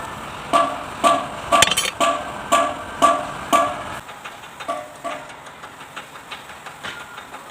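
Metal being struck in a steady rhythm, about two ringing blows a second. After about four seconds the blows turn fainter and a low background rumble stops.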